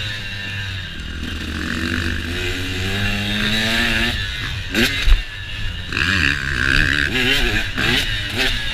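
KTM motocross bike engine under way, the revs climbing steadily for a few seconds, then a run of quick throttle blips rising and falling. A sharp thump comes about five seconds in. Wind hiss runs underneath.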